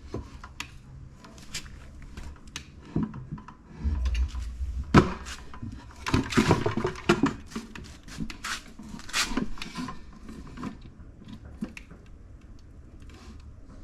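Irregular knocks, taps and clatter of wood and tools being handled, busiest in the middle, with a brief low rumble about four seconds in.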